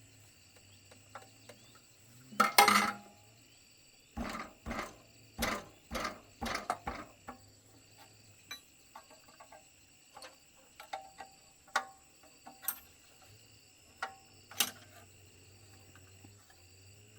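Metal tools and parts being handled: a loud clatter about two and a half seconds in, a run of about six heavier knocks soon after, then scattered light clinks. Insects chirr steadily throughout.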